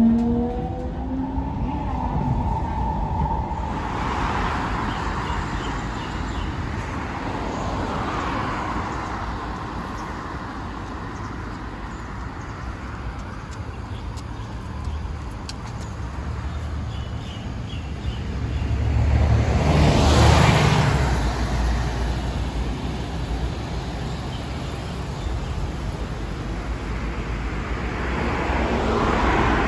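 MRT train running: an electric motor whine rises in pitch over the first few seconds as the train picks up speed, then levels off into a steady rumble of running noise that swells louder about twenty seconds in.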